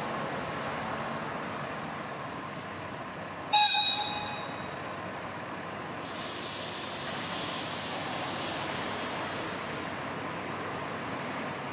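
Railway train running with a steady rumble. About three and a half seconds in, a brief loud ringing blast of high tones cuts in and fades within half a second.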